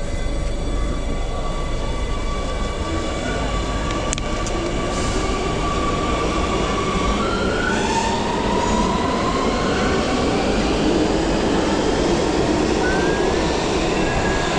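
Amsterdam Metro train moving at a station platform: a steady rumble with electric motor whine that glides in pitch and grows slightly louder toward the middle.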